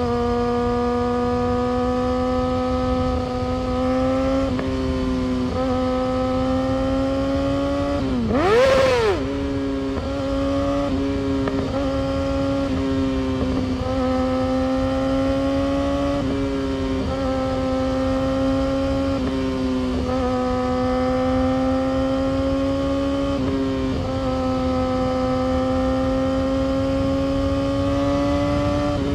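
Yamaha R6 inline-four sport bike engine and exhaust running steadily at high revs under way. The pitch rises slightly and dips every few seconds, and about eight seconds in there is one brief sharp rev that rises and falls.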